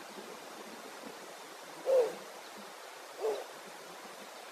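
Adult male snowy owl hooting: two short, low hoots about a second and a half apart, the first louder, over a steady background hiss.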